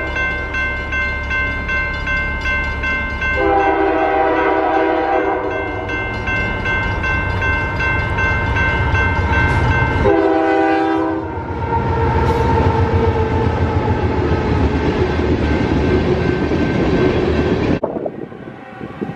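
A passing train sounding its multi-note horn in three blasts, the middle one the longest and the last one short, over the low rumble of the locomotive. The railcars then roll by with rhythmic clickety-clack until the sound cuts off abruptly near the end.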